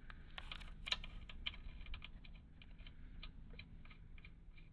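Light, irregular clicks and ticks of an oil drain cap being put back and threaded into an air compressor pump's crankcase by hand. The clicks come thickest in the first couple of seconds, then thin out and fade.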